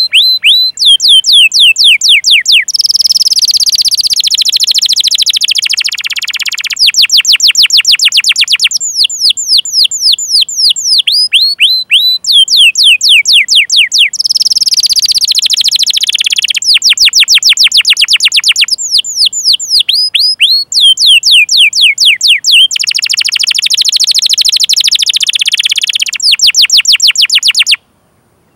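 Domestic canary singing a long song: fast runs of repeated downward-sweeping 'cuit cuit' notes alternating with rolling trills (ngerol). There is a brief silent break near the end.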